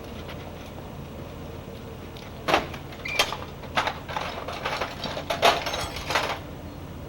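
Metal clattering and rattling in a string of sharp clanks, starting about two and a half seconds in and lasting several seconds, over a steady low hum.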